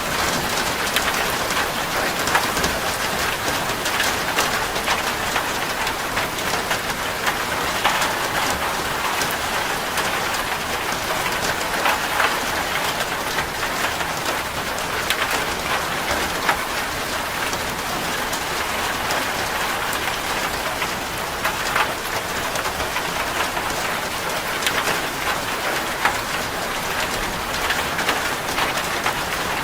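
Steady rain drumming on a corrugated zinc roof, an even patter dotted with many sharp individual drop ticks.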